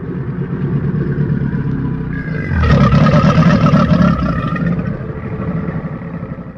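Deep, drawn-out creature growl made as a Purussaurus sound effect from crocodilian and big-cat sounds. It swells louder about midway, then fades out at the end.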